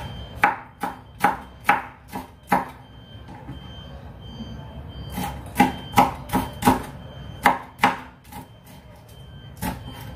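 Kitchen knife chopping chilies on a cutting board: sharp knocks in short irregular runs, with a pause of a second or two near the middle.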